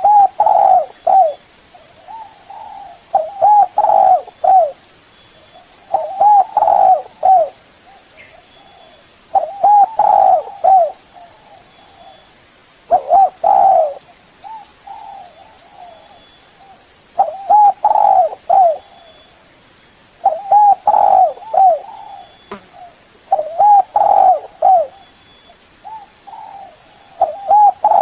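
Spotted dove cooing: a short phrase of a few hollow coos, repeated about every three seconds.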